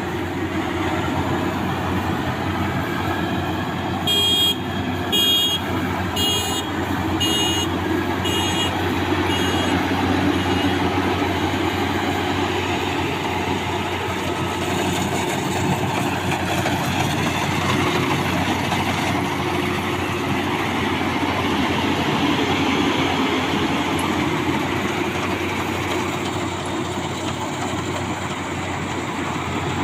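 Maxxi Bimo 102L combine harvester running steadily at full load. Between about four and ten seconds in, a series of high beeps sounds, growing fainter.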